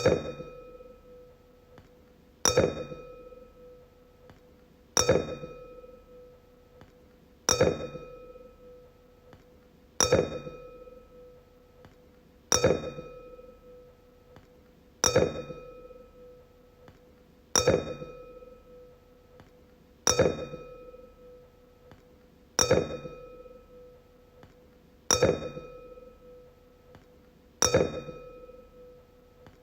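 Wine glass tapped about every two and a half seconds, twelve times, each tap ringing out in one clear tone that fades slowly while its higher overtones die away sooner.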